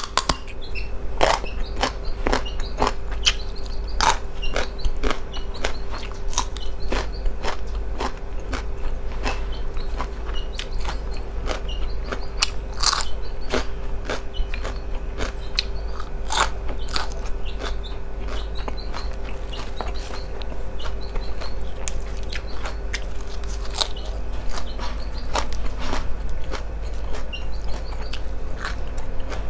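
Close-miked chewing of koi nuea, a spicy raw beef salad, with many short wet mouth clicks over a steady low hum.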